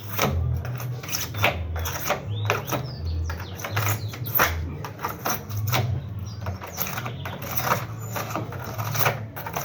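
Knife scraping leftover polystyrene foam off a refrigerator door where the old gasket was removed: a run of short, irregular scraping strokes.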